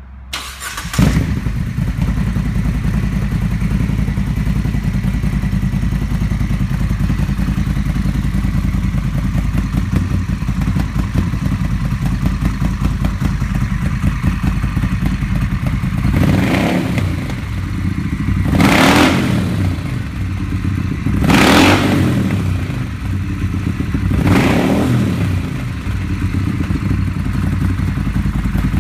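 Moto Guzzi Eldorado 1400's transverse V-twin, through Agostini exhausts with the dB killers removed, starting about a second in and idling steadily. From about halfway on, the throttle is blipped four times in short revs that fall back to idle.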